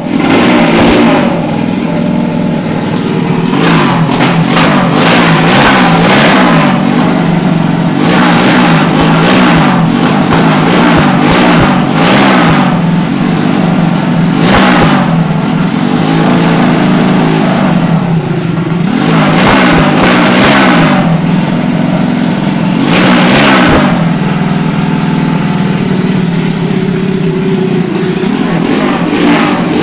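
Motorcycle engine, a 150 cc enlarged to 200 cc for drag racing, idling with repeated sharp throttle revs every few seconds.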